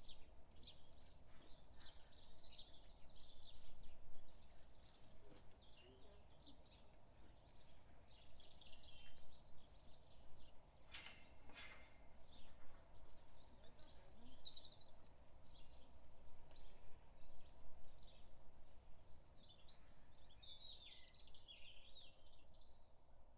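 Several small birds chirping and singing over a faint, steady low rumble, with two sharp clicks about halfway through.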